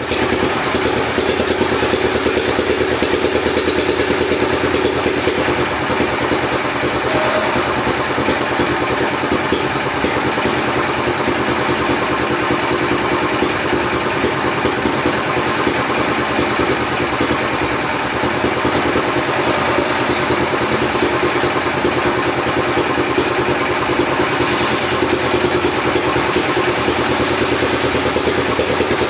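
Engine-driven saw running steadily while cutting teak wood. It is a continuous engine drone with a strong steady pitch.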